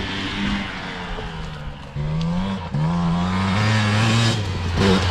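Dirt bike engine revving under throttle: its pitch climbs sharply about two seconds in and again a moment later, holds high, then drops off near the end.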